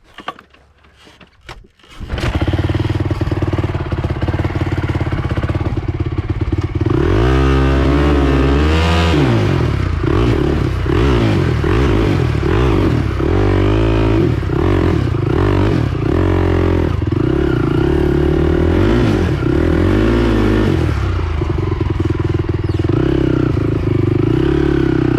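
Honda TRX450R quad's single-cylinder four-stroke engine kick-started: it fires about two seconds in and runs loudly, revved up and down several times before settling to a steady run.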